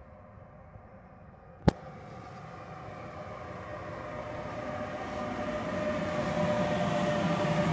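Electric freight locomotive hauling hopper wagons approaching slowly, growing steadily louder, with a rumble and a steady whine of several pitches. A single sharp click comes about a second and a half in.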